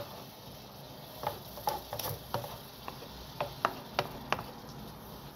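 Diced onion frying in garlic butter in a wide pan: a soft sizzle with about ten sharp, irregular crackles and pops.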